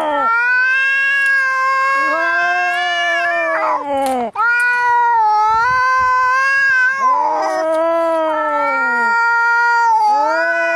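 Angry cats caterwauling in a fight: long drawn-out yowls that rise and fall in pitch, the wails overlapping at times, with a brief break about four seconds in.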